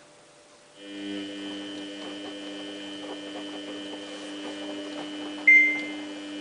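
Samsung WF8804RPA washing machine running, with a steady electric hum and whine that starts about a second in. Near the end comes a short, loud, high tone that fades away.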